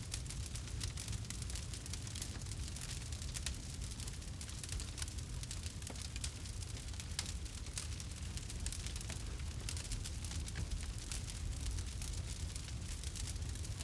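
Campfire crackling steadily, with a constant patter of small pops and snaps over a low, steady rumble.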